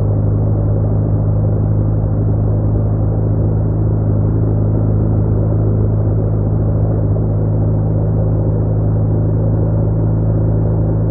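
BMW R1200R boxer-twin motorcycle engine running at steady revs, a constant low drone with no change in pitch.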